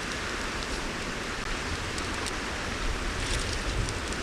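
Steady rush of a mountain stream with a campfire crackling over it, its sharp crackles coming thickest about three seconds in.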